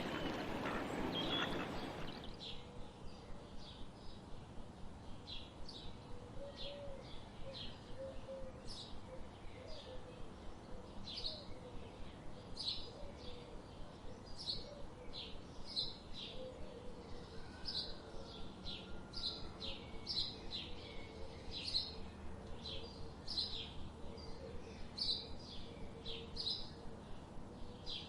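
Small birds chirping: a long run of short, high chirps, one or two a second, over a faint steady background. For about the first two seconds a louder, busier sound covers them, then cuts away.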